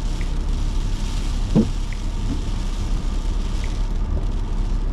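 A car is heard from inside the cabin while driving, with steady engine and road rumble. A faint tick comes about every second and a half.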